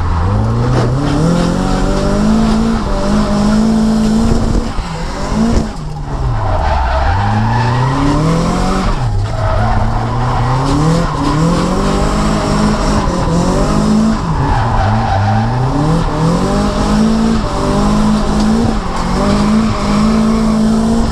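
Nissan S14's turbocharged SR20DET four-cylinder engine revving hard through a drift. The pitch climbs, holds near the top, then drops sharply several times over, with tyres squealing.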